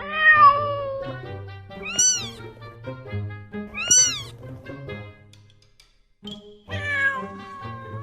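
Cats meowing four times over background music: a long falling meow at the start, two short high meows that rise and fall about two seconds apart, and another long meow near the end.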